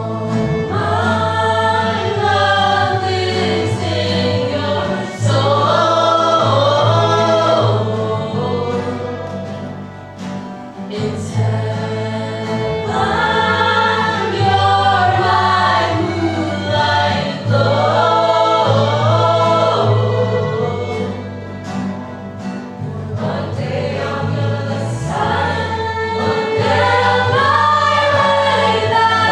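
A vocal ensemble singing together in harmony, in phrases of a few seconds, over sustained low bass notes.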